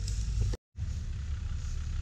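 Off-road 4x4's engine running at low revs, a steady low rumble, broken by a brief dropout to silence about half a second in.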